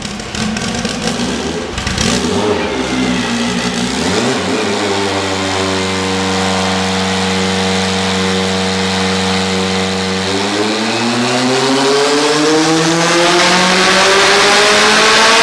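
Turbocharged four-cylinder engine of a 950 whp Acura Integra race car on a chassis dyno: running unevenly for the first few seconds, then held at a steady speed, then climbing steadily in pitch and loudness from about ten seconds in as the dyno pull begins.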